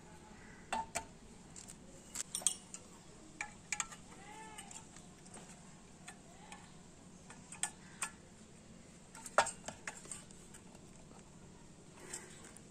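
Irregular metallic clinks and taps, some with a short ringing tail, as tools and magnetron metal parts are handled and set down; the sharpest clink comes about nine and a half seconds in.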